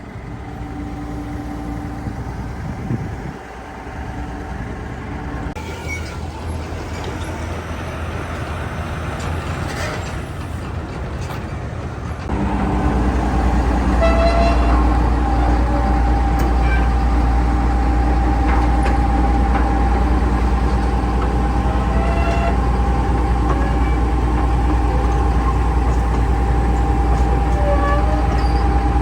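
Hitachi ZX330LC-3 excavator's diesel engine running steadily with a sustained whine. About twelve seconds in it steps up suddenly to a louder, deeper level, as if throttled up or put under hydraulic load, with short faint squeaks over it.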